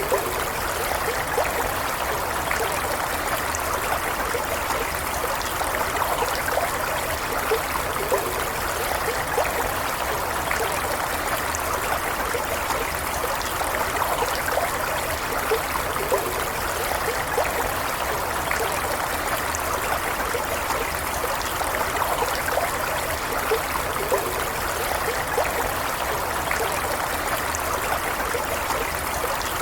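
Stream water flowing and trickling steadily, with small gurgles and splashes over an even rushing sound.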